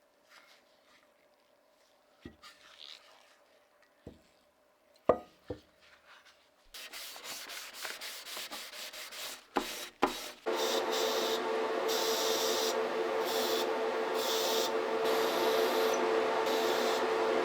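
A few separate knocks of parts being handled, then a rubbing, scraping sound. About ten seconds in, a small power tool starts running steadily with a held tone, its scraping rising and falling about twice a second, as when sanding or buffing a surface.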